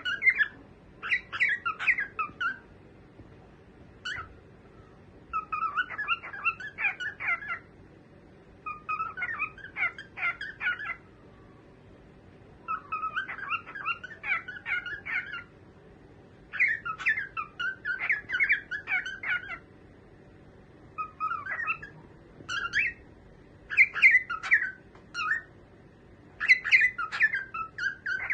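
A cockatiel chirping and warbling in short bursts of rapid, high chirps, each burst lasting a second or two, with brief pauses between them.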